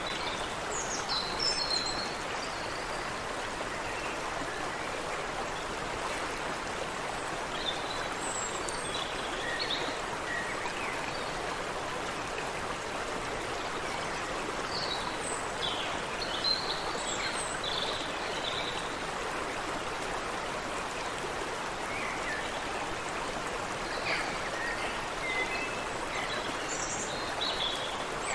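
Water running steadily in a small stream, with songbirds chirping and calling in short bursts every few seconds over it.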